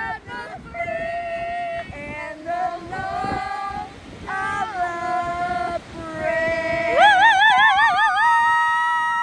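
A single high voice singing a phrase of held notes, ending on a long note that starts with a wide vibrato and then holds steady.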